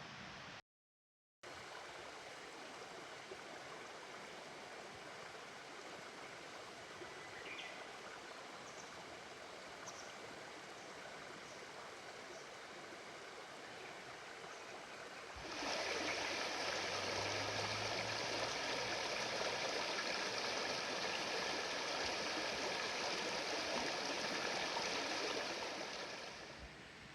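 Steady rushing noise like flowing water. It suddenly grows much louder about halfway through, holds for about ten seconds, then fades back down near the end.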